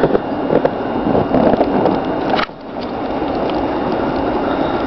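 Strong wind gusting against the microphone: a loud, even rushing noise that drops off suddenly about halfway through, then builds back up.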